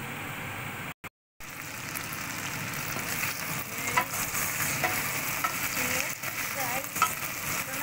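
Chicken wings sizzling in hot oil in a stainless steel pot, stirred with a wooden spoon, with scrapes and sharp knocks of the spoon against the pot. The sizzle starts after a brief silent cut about a second in, while the wings are being browned before the soup.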